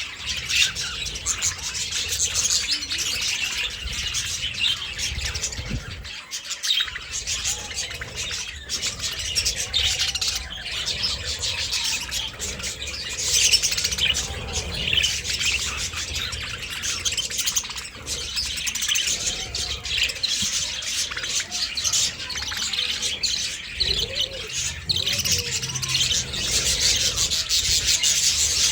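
A group of budgerigars chirping and chattering continuously, many high calls overlapping.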